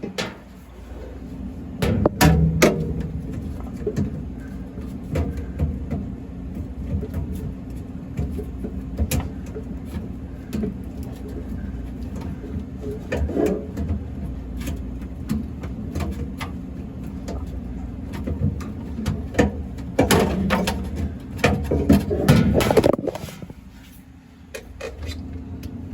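Clicks, knocks and rattles of hand tools and parts as an old refrigerator temperature controller is worked loose, with a dense stretch of handling noise about twenty seconds in, over a steady low hum.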